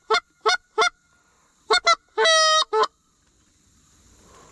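Goose honks: three short evenly spaced honks, a pause, then two quick honks, one longer drawn-out honk and a final short one.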